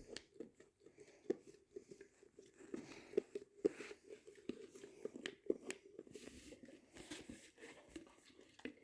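Boxer dog eating yogurt: soft, irregular smacking and licking clicks from its mouth, several a second.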